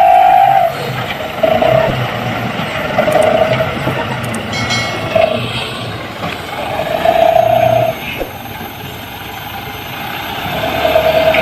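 Truck engine revving hard in repeated surges of about a second each as the truck struggles to move in deep mud.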